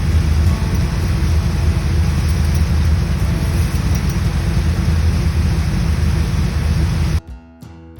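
Loud, steady rumble of a vehicle on the move, engine and road noise with a hiss across all pitches. About seven seconds in it cuts off abruptly and acoustic guitar music begins.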